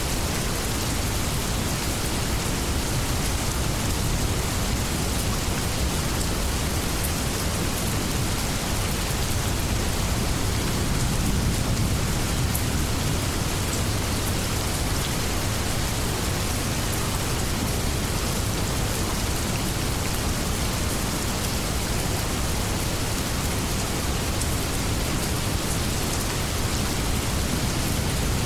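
Steady heavy rain falling, with a low rumble swelling slightly midway that may be distant thunder.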